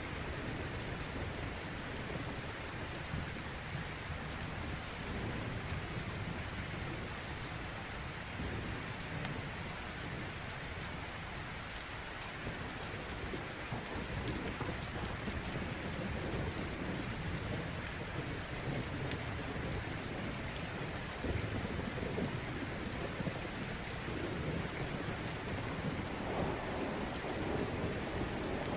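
Steady rain with scattered sharp crackles of a wood fire, and a low rumble of thunder building near the end.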